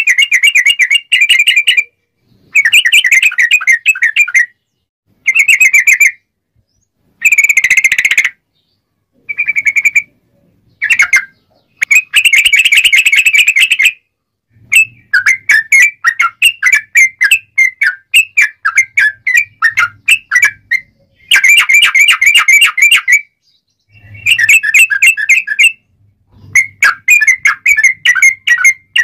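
Yellow-vented bulbul (trucuk) singing loudly in full song: bubbly, chattering whistled phrases a second or two long with short pauses between them. In the second half the song breaks into runs of quick, separate notes.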